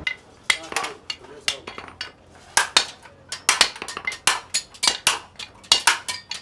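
Blacksmith's hammers striking hot iron on an anvil: a quick, irregular run of ringing metallic clanks, several a second.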